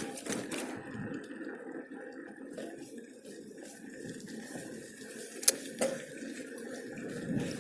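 Steady rushing noise of a bicycle being ridden, tyres on the road and air over the microphone, with two sharp clicks about half a second apart just after the middle, like the bike rattling over a bump.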